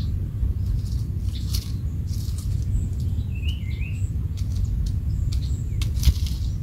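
A small bird chirping a short run of quick notes about three and a half seconds in, over a steady low rumble, with a few faint clicks and rustles.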